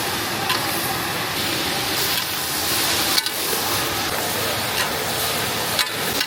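Hot oil sizzling steadily as food deep-fries, with a few light clicks.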